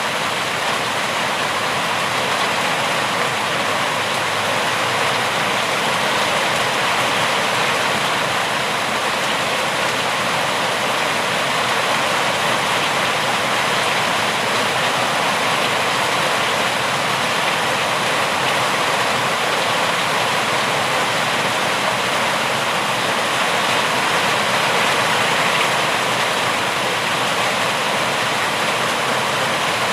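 Steady rainfall, an even unbroken hiss with no single drops, thunder or other sounds standing out.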